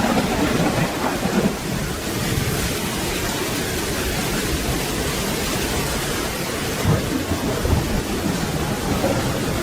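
Steady rain falling, with low rolling thunder rumbling underneath that swells slightly a couple of times.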